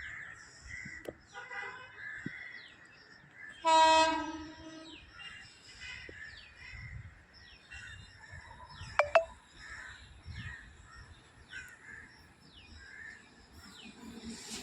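A locomotive horn sounds one loud, steady note lasting just over a second, about four seconds in, with a fainter note shortly before it. A faint high chirp repeats about once a second, and a brief shrill sound comes near nine seconds.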